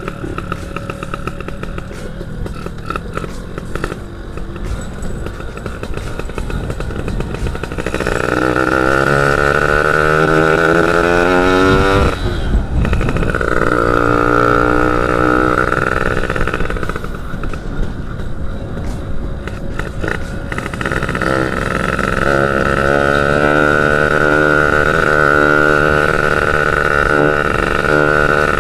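Yamaha F1ZR two-stroke single-cylinder motorcycle engine under way on an uphill, revving: its pitch climbs about a third of the way in, drops sharply for a moment as a gear changes, then runs high again and climbs once more in the last third.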